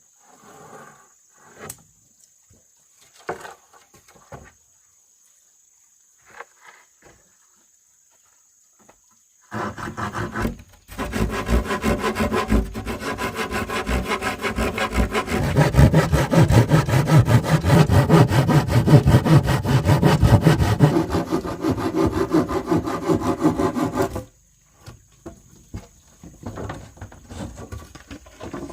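A saw cutting through bamboo: a loud, continuous rasping that starts about ten seconds in and stops abruptly about fifteen seconds later. A few light knocks come before and after it.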